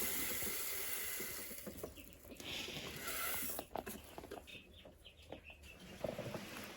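Chicks cheeping amid rustling and light knocks from handling feed, with a brief rush of poured grain near the start.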